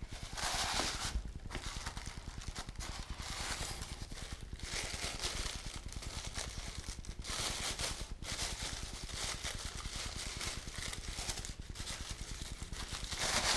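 Wrapping paper rustling and crinkling, with small knocks, as a section of a diecast model crane is unwrapped and handled.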